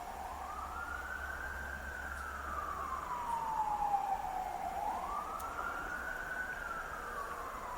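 A siren wailing: its pitch climbs, then slowly falls, then climbs and falls again, about two full cycles.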